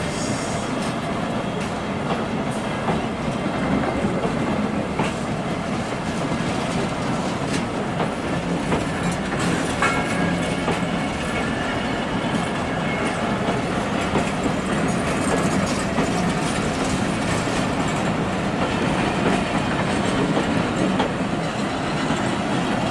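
Passenger train rolling along the track, its wheels clacking over the rail joints in a steady rumble.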